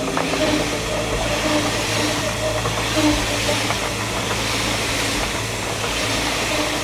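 Train running, a steady low hum with higher tones that come and go over it.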